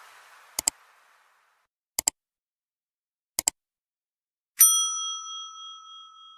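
Outro sound effect: three quick double clicks about a second and a half apart, then a single bright ding that rings on and slowly fades.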